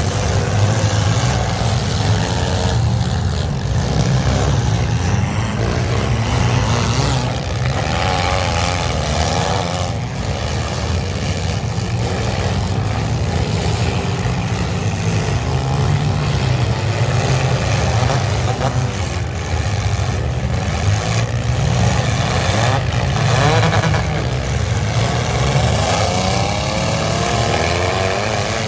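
Several demolition-derby compact cars with engines running and revving hard, rising and falling in pitch as they push and ram one another. Metal crashes from collisions come now and then.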